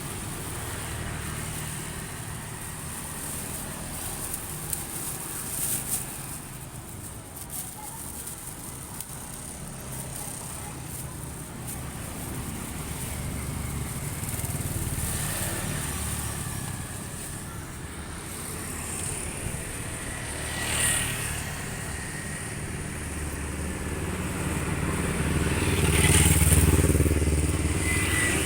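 Motorcycle engine running steadily on the move. The engine noise swells loudest about 26 seconds in.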